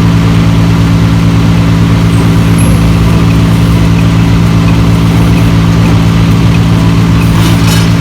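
An engine idling steadily, loud and close, with an even low pulsing.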